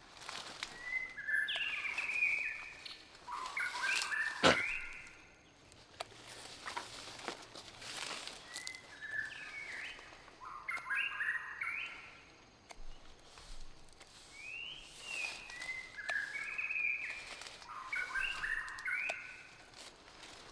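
A songbird singing in three bouts of quick, stepped whistled notes, outdoors. Scattered clicks run under the song, and a single sharp knock comes about a third of the way in.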